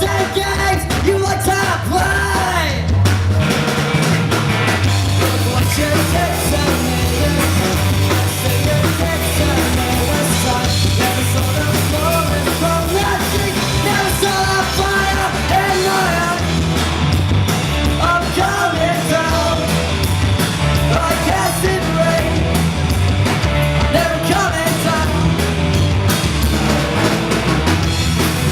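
Live band playing a loud rock song: a steady bass and drum beat under a melody line that bends up and down.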